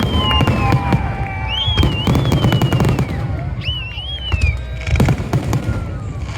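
Fireworks going off in quick succession: sharp bangs and crackling pops over a low rumble, with high whistling tones that rise and then slowly sink several times.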